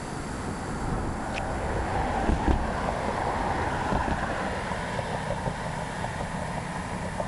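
Wind rushing over the microphone and tyre rumble of a bicycle in motion, a steady noise that swells a little around two to four seconds in, with a few faint ticks and rattles.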